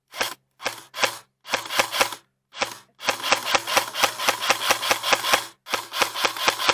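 Wheelbarrow being pushed over rough ground, rattling and knocking in a quick even rhythm, about five or six knocks a second. The rhythm is broken by short gaps in the first three seconds, then runs on steadily.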